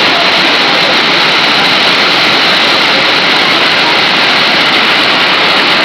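Waterfall, loud and steady: a continuous rush of falling water close by.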